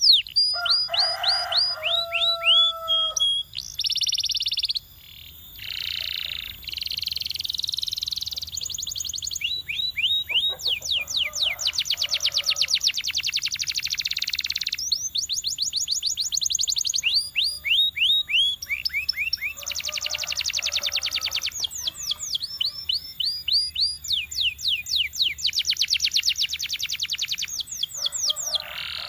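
Domestic canary singing a long, continuous song: fast trills of repeated down-slurred notes alternating with dense, buzzy rolls, with a short steady lower whistled note near the start.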